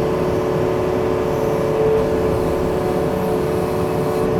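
Diesel engine of a Yanmar machine running steadily at a constant speed, with a steady hum.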